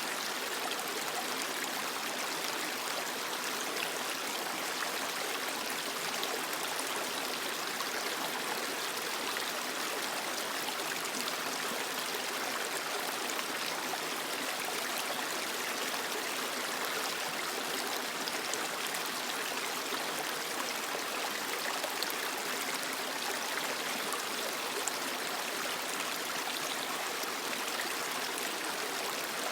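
A creek running steadily over rocks: an even rushing and splashing with a fine trickling texture.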